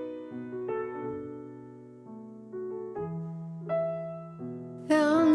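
Acoustic piano playing a slow, soft interlude of sustained chords and single notes that ring and fade. A woman's voice comes in singing with vibrato near the end.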